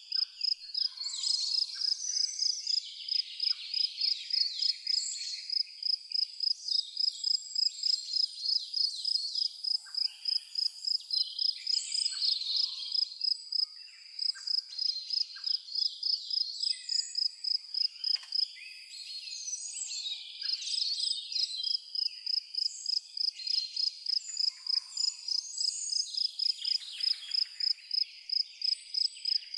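A cricket chirping steadily at about three pulses a second, with a short pause about two-thirds of the way through. Songbirds call and twitter in a varied chorus around it.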